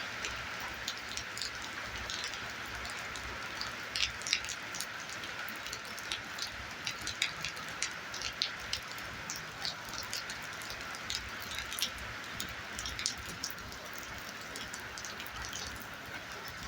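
Heavy rain falling: a steady hiss with many irregular sharp taps of drops striking a surface.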